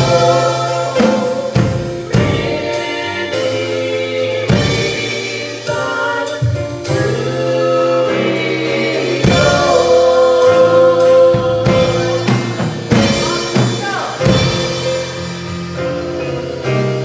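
Gospel music: voices singing with a drum kit and instruments, held notes over a steady beat.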